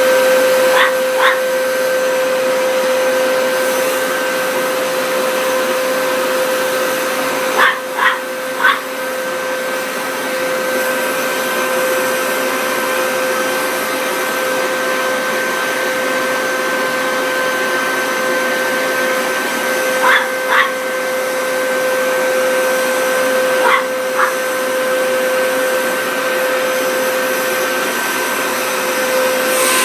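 Vacuum cleaner running steadily with a high, even motor whine. A dog barks over it in short runs of two or three barks, four times.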